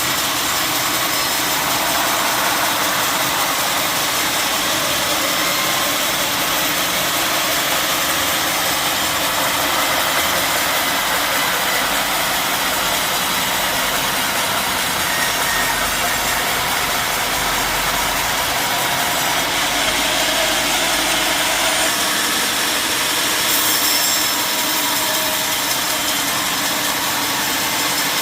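Sawmill machinery running steadily: a continuous loud, even mechanical drone with no breaks or sudden changes.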